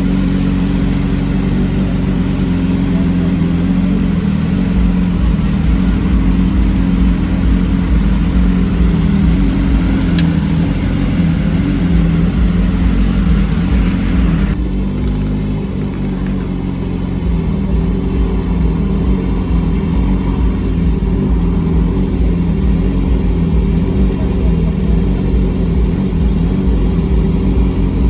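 Car engine running at a steady speed, its pitch holding without revving, over the background noise and voices of a car meet.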